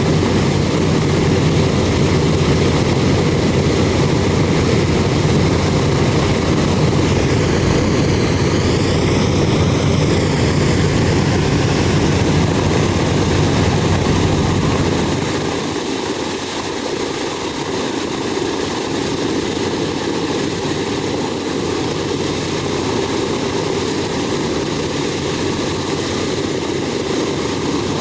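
Boeing B-17's Wright R-1820 Cyclone radial engines running with propellers turning, loud and steady. About halfway through, the deep low rumble drops away and the sound eases slightly.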